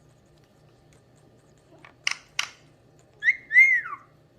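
Pet parrot gives two short sharp chirps, then two whistled calls that each rise and fall, the second longer and dropping away at the end.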